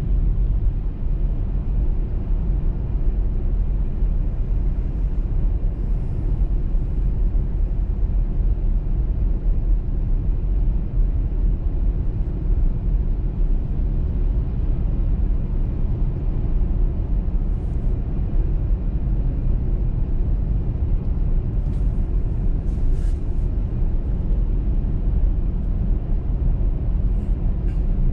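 Car driving along a snowy motorway: steady low rumble of tyre and road noise with the engine underneath, and a few faint ticks about three-quarters of the way through.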